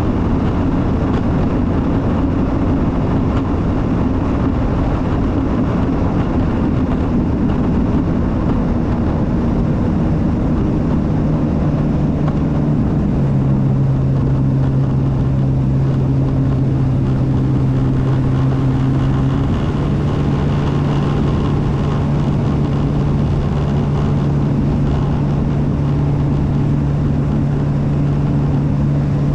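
Jet ski engine running steadily under way, a loud drone over a rushing noise. Its pitch drops a little about a third of the way in and rises again around two-thirds of the way through.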